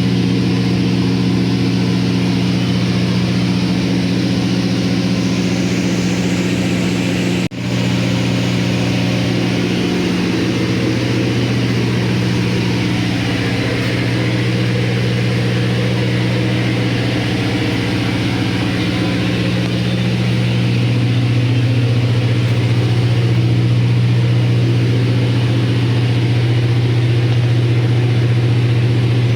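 Large diesel generator engine running steadily with a deep, even drone. It breaks off for an instant about seven seconds in and grows a little louder later on.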